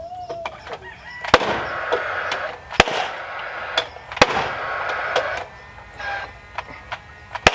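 Pneumatic framing nailer firing three sharp shots about a second and a half apart, with lighter clicks and hissing air between them; the nailer is misfiring.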